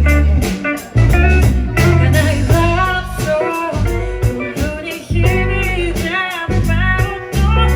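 Live band music: a song played with a steady drum beat under sustained bass notes and guitar.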